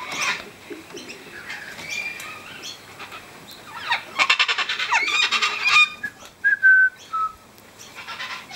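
Wild birds calling around a feeding spot where sulphur-crested cockatoos and noisy miners gather. The calls are scattered, with a loud harsh, rapidly pulsed rasping call about four seconds in lasting nearly two seconds, followed by a few short, clear whistled notes.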